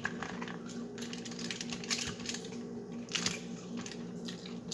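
Light, irregular clicks and taps of crab shells and food containers being handled, over a steady low hum.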